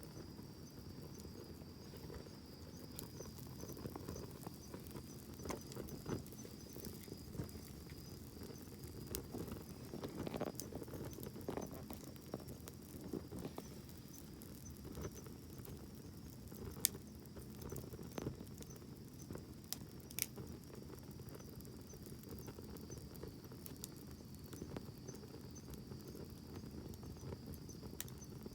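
Campfire burning, with a low, steady flame rustle and scattered sharp crackles and pops from the burning wood.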